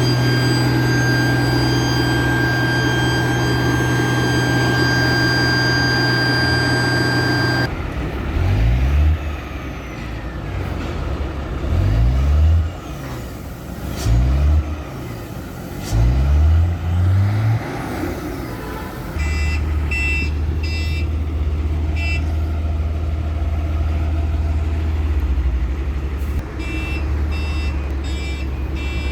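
Sany concrete mixer truck's diesel engine running at a steady raised speed with a high whine while its empty air tanks are filled. It is then revved up and down five or six times and settles to a steady idle, with short electronic beeps repeating in two runs.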